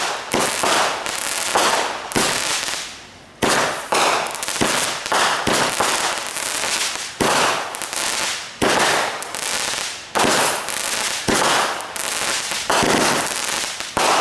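Fireworks going off in a long, irregular run of sharp bangs, roughly one every half-second to second, each fading out over a moment. There is a brief lull about three seconds in.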